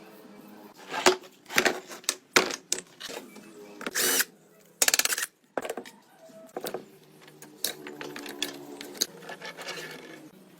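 Metal tools and parts knocking and clinking as they are handled in a workshop, with two short rattling bursts near the middle.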